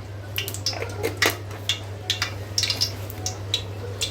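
Whole spices (cardamom pods and cloves) crackling in hot oil in a pan: irregular sharp pops, several a second, over a steady low hum.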